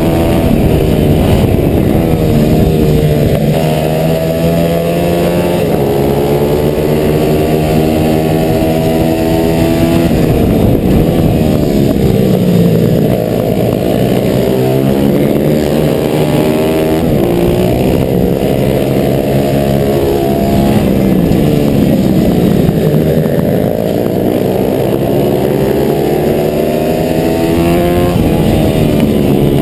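A 140cc single-cylinder four-stroke pit bike engine, heard on board at racing pace. Its pitch climbs hard under throttle and drops back over and over as the bike accelerates out of corners and slows for the next.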